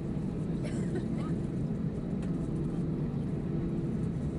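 Steady drone inside the cabin of an Airbus A319-111 with CFM56 engines, with a constant two-tone engine hum over the roar of airflow.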